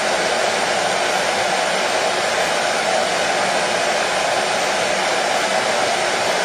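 Electric hair dryer running steadily: an unbroken rush of blown air with a faint, even motor hum beneath it.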